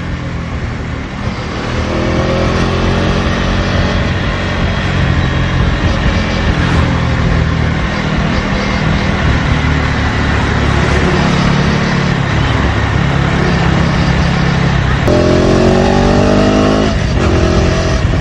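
KTM Duke 250's single-cylinder engine running through its stock exhaust while riding, with its pitch rising as it accelerates about two seconds in and again, more strongly, about fifteen seconds in, over a steady rush of wind and road noise.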